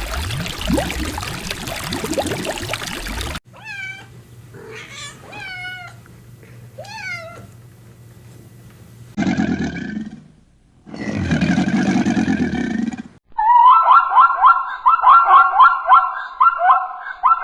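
A run of different animal calls: after a dense noisy stretch, a cat meows several times, short calls rising and falling in pitch. Two longer, lower calls follow, then from about two-thirds of the way in a fast run of loud, repeated high calls.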